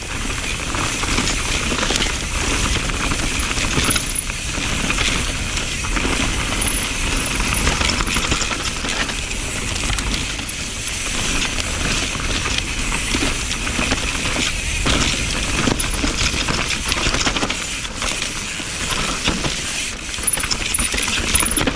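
Mountain bike riding down a rough, rooty trail. Continuous tyre and rolling rumble, with a steady rattling clatter from the bike's chain and frame as it bounces over roots.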